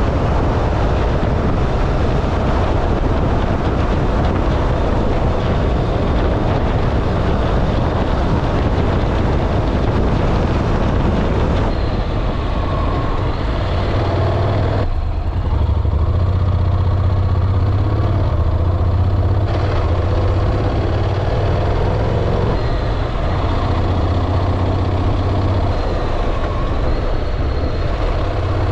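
Motorcycle running on the road with steady engine and wind noise. For a few seconds past the middle the wind hiss drops and the engine's low hum stands out.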